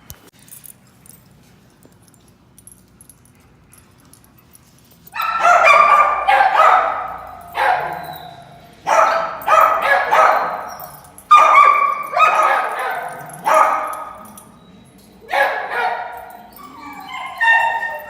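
A dog barking loudly and repeatedly, about a dozen barks in uneven bunches, starting about five seconds in after a quiet stretch.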